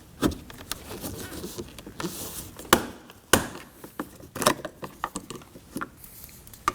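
A plastic trim tool prying a small plastic trim panel off the inside of a Ford Edge front door, with a string of sharp clicks and a short scrape as the panel's clips let go.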